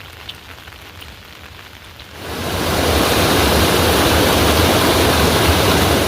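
Heavy rain pouring down: a loud, even rush that swells in about two seconds in and holds steady, after a few faint bird chirps.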